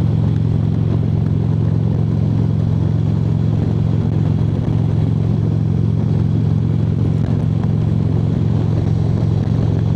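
Harley-Davidson V-twin motorcycle engine and exhaust running steadily at highway cruising speed, its low note holding even, with road and wind noise from riding.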